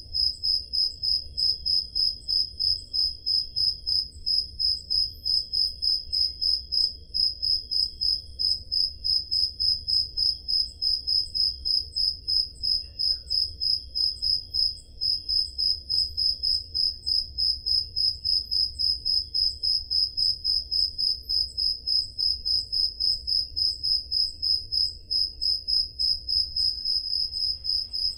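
Crickets chirping on a summer night: a steady, high, even pulse of chirps, about three a second.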